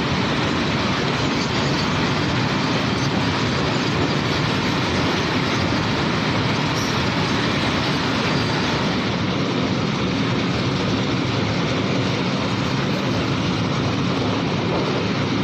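Long coal goods train of loaded wagons rolling past, a steady noise of wheels on rail with no let-up.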